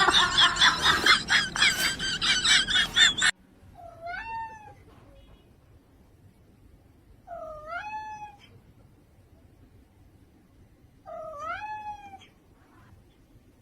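A domestic cat meowing three times, each meow about a second long and dipping then rising in pitch, spaced a few seconds apart. Before the first meow, a loud, dense burst of sound cuts off suddenly.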